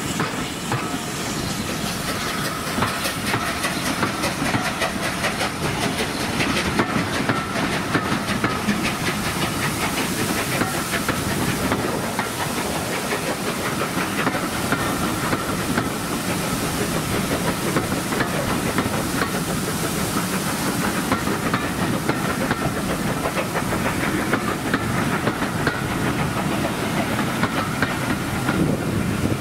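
Coaches of a steam-hauled passenger train rolling past close by, their wheels clattering over the rail joints in a steady stream of clicks over a rushing rumble, with a thin steady whine above it.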